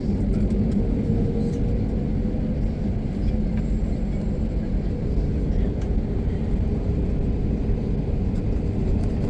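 Steady low rumble of a running engine, with a steady hum running over it.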